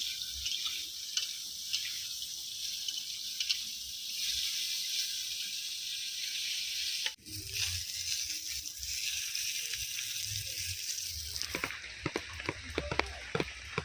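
Food sizzling as it fries in hot oil, a steady hiss. Near the end it turns into a quick run of sharp crackles and pops.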